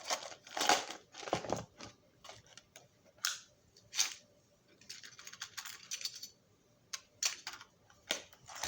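Small hard tools and parts being handled on a workbench: scattered clicks and light clatter, with a brief rustle in the middle, as a small drill bit is fetched.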